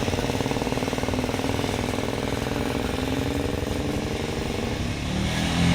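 Motorcycle engine running close by with a fast, even pulse, its pitch slowly dropping. A louder, lower engine rumble builds near the end.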